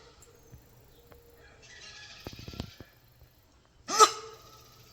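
Capybara giving one short, loud alarm bark, like a dog's bark, about four seconds in: a warning call taken as a sign that it has noticed someone near. A softer, noisier rustle with a few clicks comes about two seconds in.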